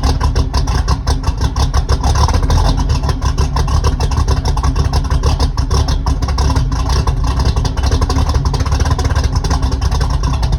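Chevy 454 big-block V8 running steadily through a 3-inch exhaust with an X-pipe and Magnaflow mufflers, its exhaust pulsing evenly, shortly after a cold start from winter storage.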